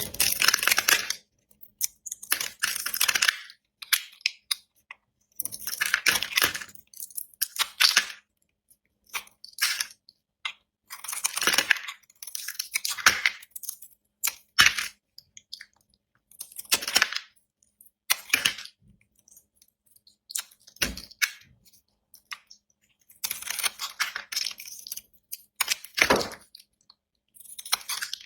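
A knife cutting through blocks of dry soap: crisp crunching and crackling strokes, each lasting about a second, with silence between them.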